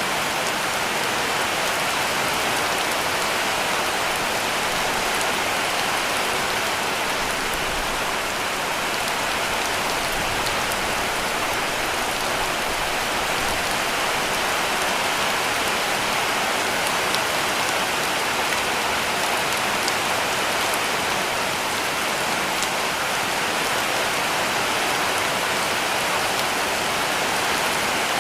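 Heavy rain falling steadily on a cabin roof: an even, unbroken hiss with faint scattered drop ticks.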